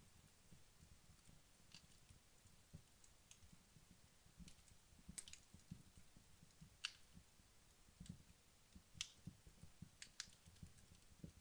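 Wood logs burning down in a fireplace, crackling faintly: sparse, irregular sharp snaps, a few louder ones about five, seven, nine and ten seconds in, over soft low pops.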